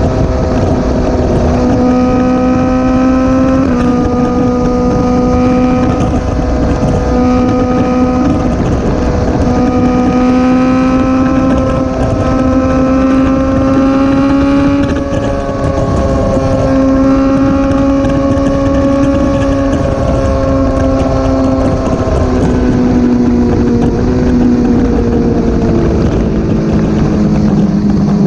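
Motorcycle engine pulling at steady high revs while riding at speed, with wind rushing over the microphone. The pitch holds level with small steps at about 4 s and 15 s, then sinks gradually over the last several seconds as the bike slows.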